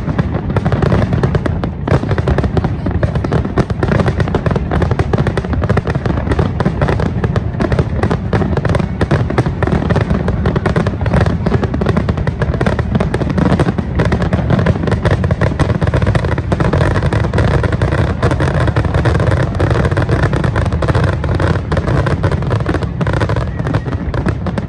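Fireworks display in a rapid, continuous barrage: shell bursts and crackles follow one another too fast to count, over a heavy low rumble, with no pause.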